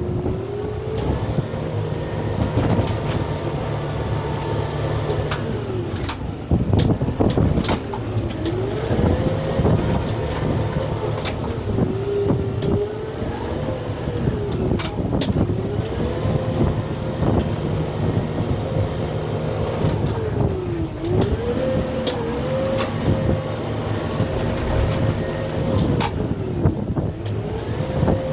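Kubota M6-141 tractor's diesel engine working under heavy load. Its pitch sags and climbs back again and again as the root grapple tears at a tree's roots. Sharp cracks of roots and wood snapping come through at intervals, loudest about seven seconds in.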